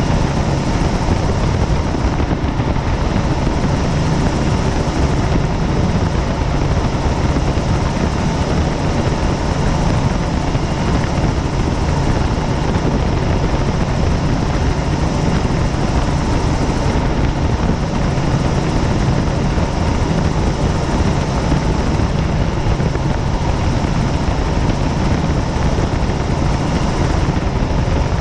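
Helicopter in steady flight, heard from aboard: a constant, loud rotor and engine noise with no change.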